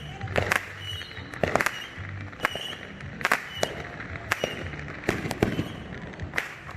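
Fireworks going off: a dozen or so sharp bangs and pops, irregularly spaced and some in quick pairs.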